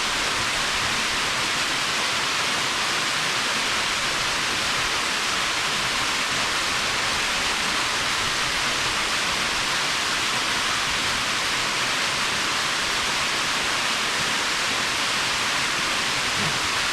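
Waterfall running, a loud, steady, even rush of falling water.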